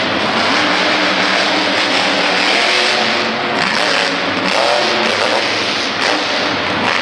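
Monster truck engine revving hard, loud and continuous, its pitch rising and falling as the throttle is worked.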